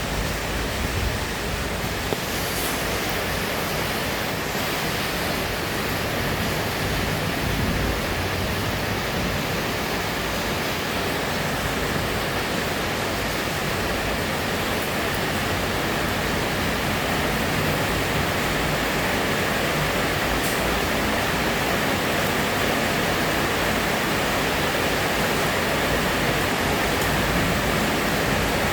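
Steady, heavy rainfall, an even hiss with a few faint ticks of drops striking something hard.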